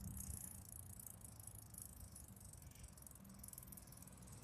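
Near silence: a faint low rumble with a faint high rattle and hiss that thins out after the first second or two.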